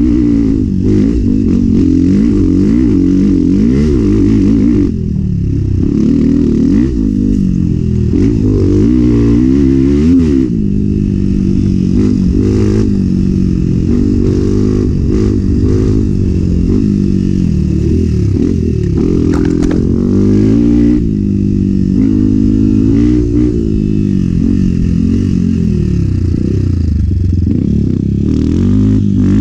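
Enduro dirt bike engine being ridden hard, its pitch rising and falling every second or so as the throttle is opened and closed, with a brief drop in level about five seconds in.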